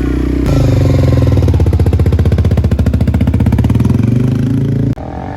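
Motorcycle engine running, getting louder about half a second in with a rapid, even pulse. It cuts off suddenly near the end, where a quieter engine sound rising in pitch begins.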